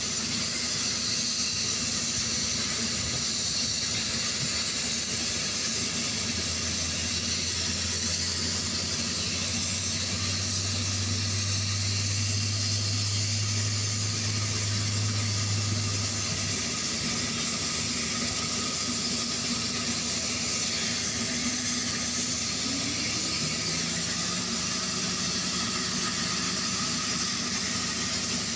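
Black Hawk helicopter turbine engines running: a steady hissing rush, with a low hum that comes in for about ten seconds mid-way and a low tone that slides up and holds near the end.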